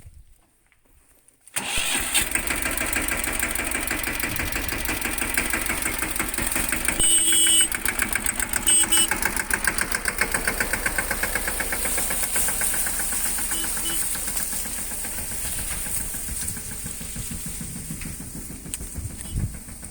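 Mahindra Yuvraj 215 mini tractor's single-cylinder diesel engine starting suddenly about a second and a half in, then running with a fast, even pulse. A few short high tones sound over it around the middle.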